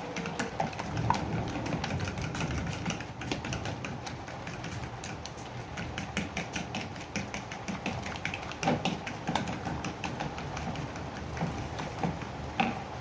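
Two eggs being beaten by hand in a bowl, the utensil clicking rapidly and steadily against the bowl.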